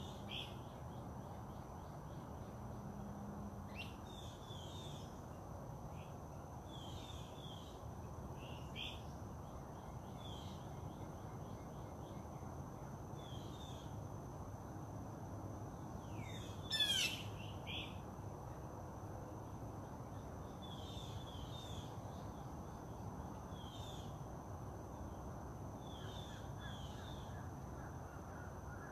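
Wild birds calling outdoors: short high chirps repeated every second or two, with one louder, sharper call about seventeen seconds in, over steady background hiss.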